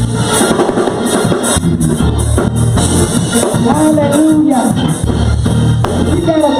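Live church band playing a gospel praise-break groove, with a pulsing bass line and drums with cymbals; a voice calls out over the music about four seconds in.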